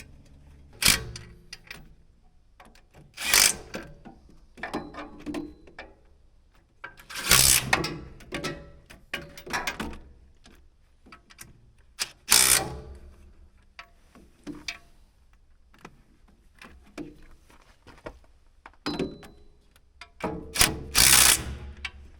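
Hand tools clanking and knocking on metal machine parts during repair work: irregular hits with smaller clicks between them, the loudest few seconds apart.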